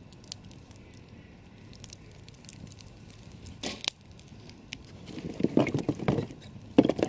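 Campfire crackling with small sharp pops, one brighter snap just before halfway. From about five seconds in come louder, irregular knocks and rustles, as of wood shifting in the fire.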